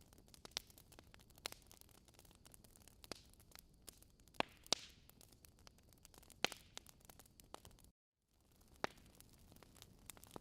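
Log fire in a fireplace crackling: irregular sharp pops and snaps over a soft hiss. The sound cuts out completely for a moment about eight seconds in.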